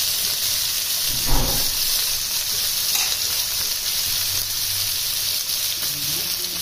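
Prawns shallow-frying in hot mustard oil in a kadai, a steady sizzle throughout. A brief dull thump comes about a second and a half in.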